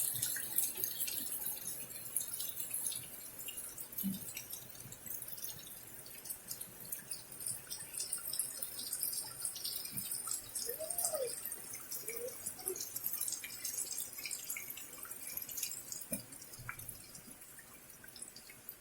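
Rainwater dripping and pattering in many small, irregular drops over a steady rain hiss. A couple of short faint calls are heard about halfway through.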